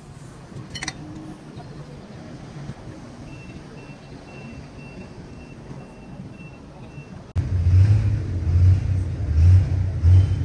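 Engine rumble, with a row of evenly spaced high beeps like a backup alarm for a few seconds. About seven seconds in it cuts suddenly to a much louder, pulsing engine rumble.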